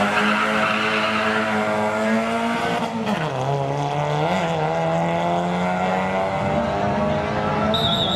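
A drag-racing car's engine held at high revs, its pitch dropping about three seconds in and then holding steady at a lower note.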